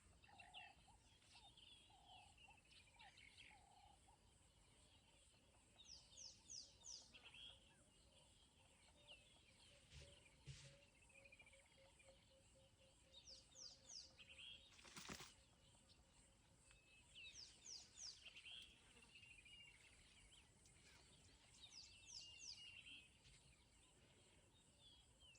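Faint bush ambience with a bird repeating a short phrase of quick chirps and trills every few seconds, and one sharp click about fifteen seconds in.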